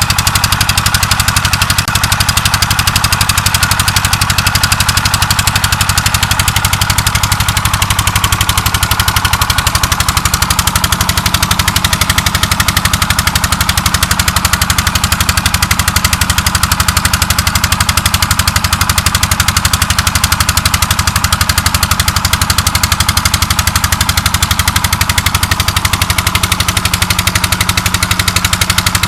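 Stationary diesel engine driving a tubewell pump, running steadily with a fast, even firing beat.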